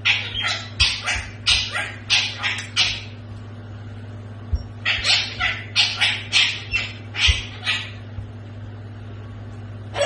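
A small dog yipping: quick high-pitched yips about three a second, in two runs with a pause of nearly two seconds between them.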